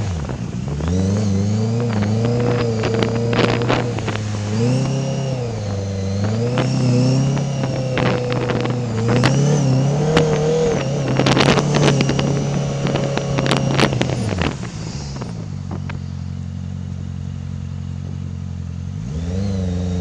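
Honda CBR650F's inline-four engine through an Akrapovic full exhaust, revving up and dropping back repeatedly as the bike accelerates and changes gear. About two-thirds of the way in the note settles to a steady, lower, quieter tone, then rises again near the end.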